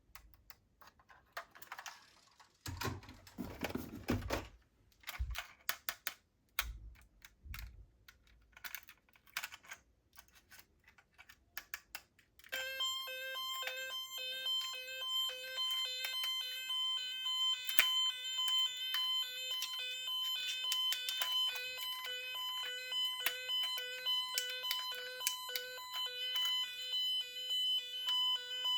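Small hard plastic clicks and knocks of a toy being handled. About twelve seconds in, a toy police car's electronic siren switches on: a shrill beeping tone pulsing over and over at a steady rate.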